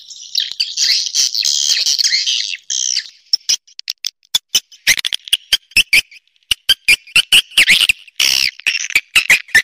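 Swiftlet calls: about three seconds of dense, high twittering, then a quick series of sharp clicks mixed with short chirps, several a second.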